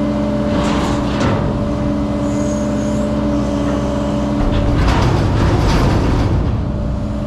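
Rented excavator's diesel engine running steadily. About four and a half seconds in the steady tone gives way to a louder, rougher sound as the machine works, with noisy streaks near the start and around five seconds in.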